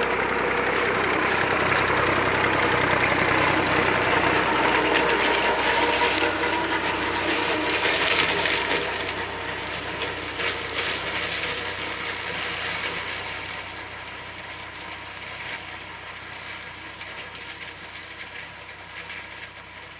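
IMT 539 tractor's three-cylinder diesel engine and the SIP 135 Roto forage harvester it drives, working through corn. It is loud for the first eight seconds or so, then fades steadily as the machines move away.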